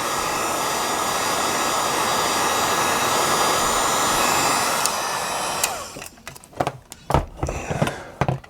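Heat gun blowing steadily, then switched off about two-thirds of the way in, its fan winding down with a short falling whine. A few irregular knocks and clicks of handling follow.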